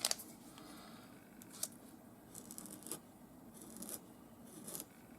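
Faint scratchy strokes of a Posca paint marker drawing across paper, a few short strokes of about half a second each in the second half, after a sharp click at the start and another about a second and a half in.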